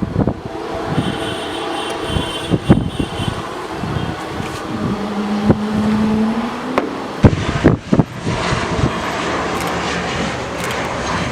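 Steady engine noise of a jet airliner on its landing run, with gusty wind repeatedly buffeting the microphone in brief thumps.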